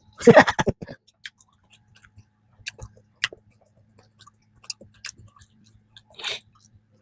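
Close-miked chewing of soft peanut cream bread: wet mouth clicks and smacks. The sound is busiest and loudest in the first second, then settles into sparse small clicks, with a brief louder smack or breath a little after six seconds.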